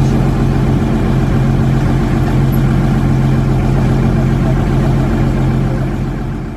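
Cruise boat's engine running steadily with a strong low hum, fading out near the end.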